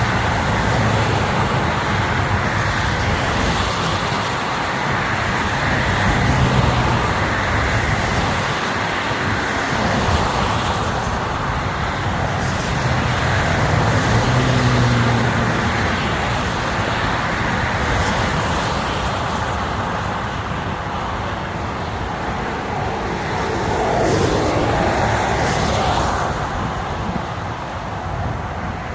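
Steady highway road noise: a continuous rush of tyres and air with a low engine hum that swells and fades a little.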